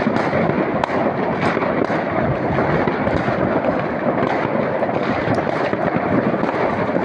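Many fireworks and firecrackers going off at once: a dense, unbroken crackle with sharp individual cracks scattered all through it.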